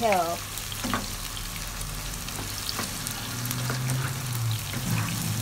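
Diced tempeh frying in hot oil in a wok, sizzling steadily, with a spatula scraping and clicking against the pan now and then as it is stirred.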